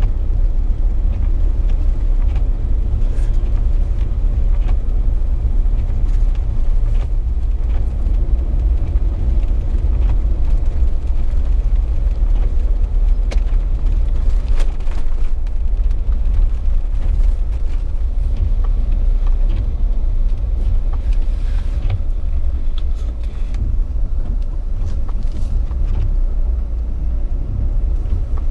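A Jeep being driven on snowy, icy streets: a steady low rumble of engine and tyre noise, with occasional faint ticks.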